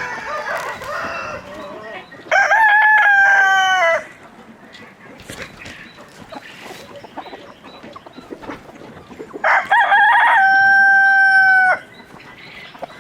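Rooster crowing twice, once about two seconds in and again near the ten-second mark, each crow ending in a long held note that drops away at the end. Softer clucking from chickens comes before and between the crows.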